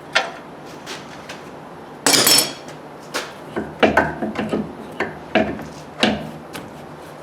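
Knocks and clatter of tools on metal during front suspension work, with a short, harsh burst about two seconds in and a run of sharp knocks after it.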